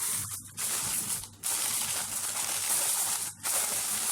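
Aluminium foil crinkling and crackling as it is folded and crimped tight around a baking dish, with three short pauses between handfuls.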